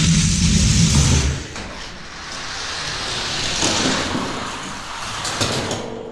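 Die-cast toy cars rolling fast down a plastic drag-racing track after the start gate drops. There is a loud rumble for the first second or so, then a steady rushing roll that swells and fades.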